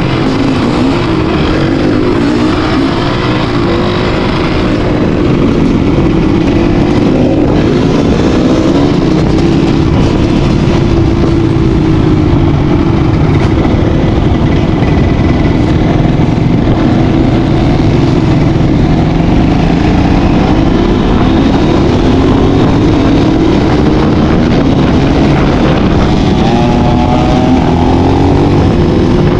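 Enduro dirt bike engine running continuously on a trail ride, its pitch rising and falling again and again as the throttle is worked, over a steady rush of noise.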